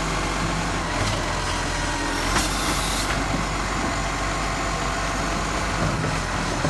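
Diesel garbage truck engine running steadily, with a short high hiss about two and a half seconds in.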